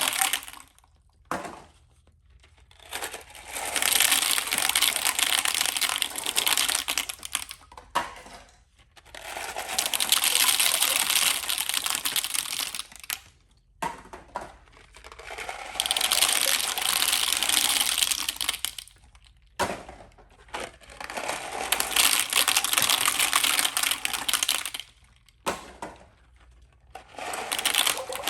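Toilet flushing again and again: about five rushes of water, each several seconds long, with short near-silent gaps between them.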